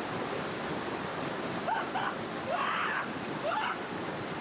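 Rushing mountain stream swollen by monsoon rain, a steady, full rush of water. A few brief faint sounds rising in pitch come through it around the middle.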